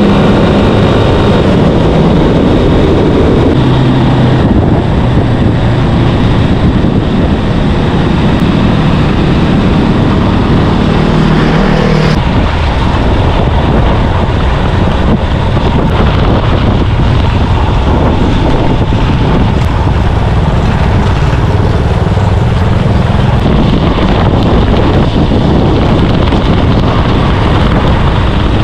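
Vehicle engine running on the move under loud, steady wind noise on the microphone. The engine's pitch steps up and down in the first twelve seconds or so, then sinks into the noise.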